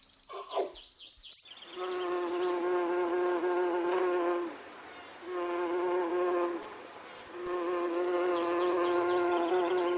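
A flying insect buzzing with a steady drone in three bouts: a long one, a short one, then another long one that is still going at the end.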